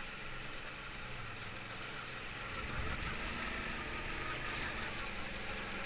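Suzuki V-Strom motorcycle's V-twin engine running steadily at low speed on a rough road, a low even engine note with faint high ticks.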